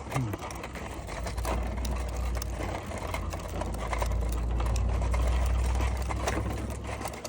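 Child's bicycle with training wheels rolling along, rattling and clicking steadily. Wind rumbles on the microphone, heaviest through the middle and easing near the end.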